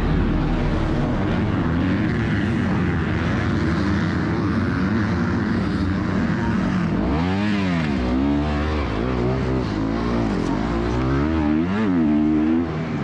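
Several 250cc four-stroke motocross bikes racing, engines running hard. In the second half the pitch rises and falls repeatedly as the riders throttle on and off and shift gears.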